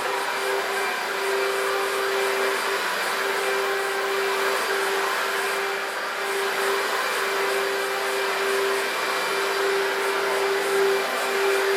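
Electrolux Contour Z1501 upright vacuum cleaner's 1300W motor running steadily: a rush of air with one strong steady whine.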